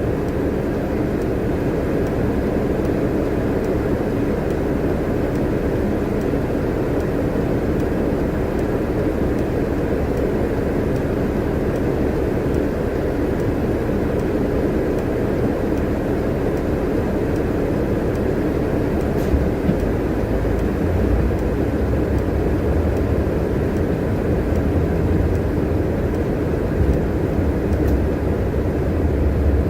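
Steady engine and road noise inside a moving bus, with the low rumble growing heavier in the later part.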